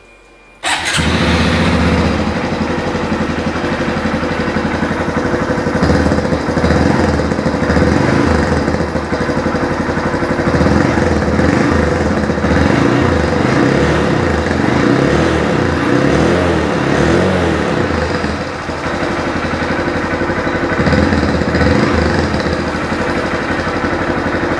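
A 2020 Honda MSX125's single-cylinder four-stroke engine, breathing through a Scorpion Red Power aftermarket exhaust, fires up about half a second in and settles into a steady run.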